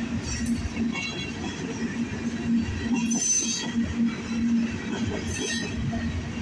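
Freight train tank cars rolling past: a steady rumble of steel wheels on the rails with a low hum that comes and goes. A brief high-pitched wheel squeal comes about three seconds in and again about five and a half seconds in.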